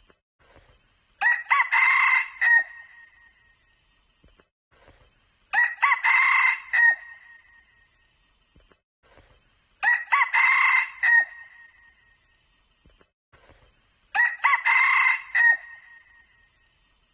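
Red junglefowl cock crowing four times, each crow a short clear call of about a second and a half, evenly spaced about four seconds apart.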